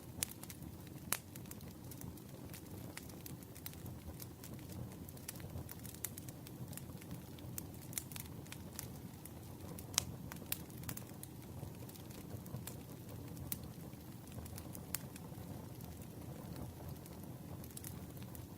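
Campfire crackling: a steady low rumble of burning wood with irregular sharp pops and snaps, the loudest about ten seconds in.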